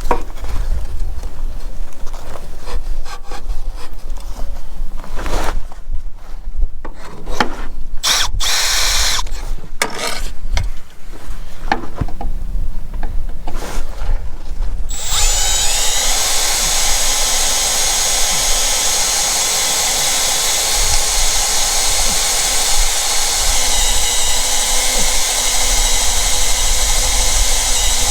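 Irregular knocks and scraping of tools and parts being handled, then about halfway through a motor starts and runs steadily with a high whine.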